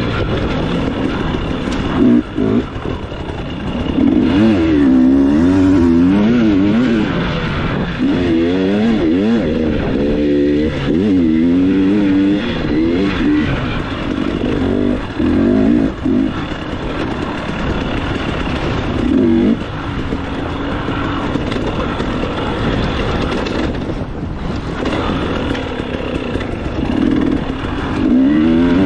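Dirt bike engine revving up and down over and over as the throttle is opened and closed, its pitch rising and falling every half second or so at times.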